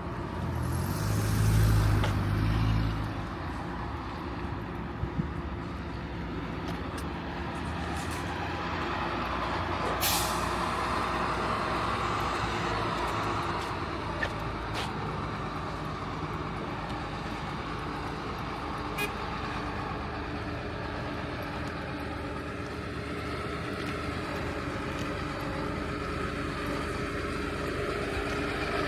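Street traffic running steadily, with a heavy vehicle passing close about a second in, its low rumble and a loud hiss lasting a couple of seconds. A few sharp clicks sound later.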